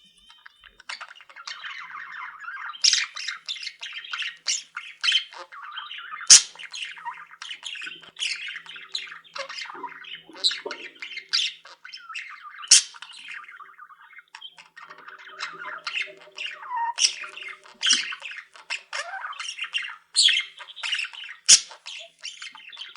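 A flock of pet cage birds chattering continuously, with many short, sharp squawks and chirps over the top.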